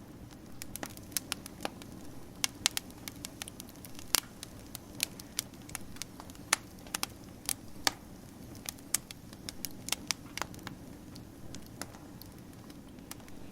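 Wood fire crackling: sharp, irregular pops and snaps, several a second, over a steady low background of burning.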